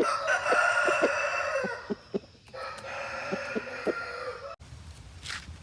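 Aseel rooster crowing twice: a loud crow about two seconds long, then a second, quieter crow, with short low clucks underneath. The sound cuts off abruptly near the end.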